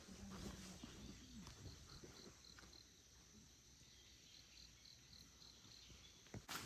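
Faint insect chirping: two short runs of high, evenly spaced pulses, about four or five a second. A sharp click comes near the end.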